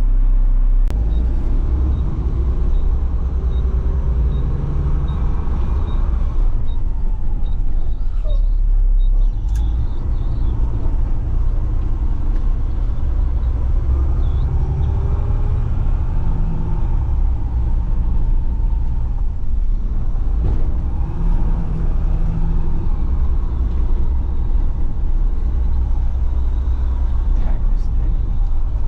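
Front-load garbage truck's engine running as the truck creeps along, heard from inside the cab, its pitch rising and falling a few times with the throttle.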